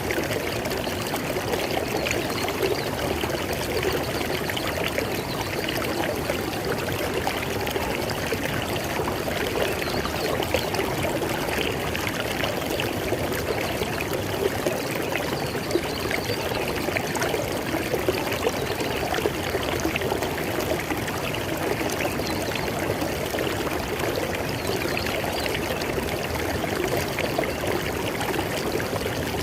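River water flowing steadily over rocks, a continuous rushing and splashing with small bubbling flickers.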